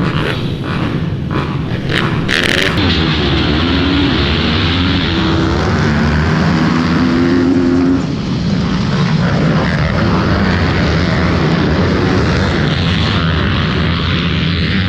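Minibike (pit bike) engines running loud, one note climbing in pitch in steps as a bike accelerates, then dropping about eight seconds in.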